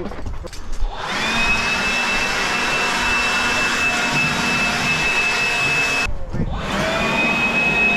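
A high-pitched electric motor whine: it spins up about a second in and runs steadily, cuts off suddenly about six seconds in, then starts up again soon after.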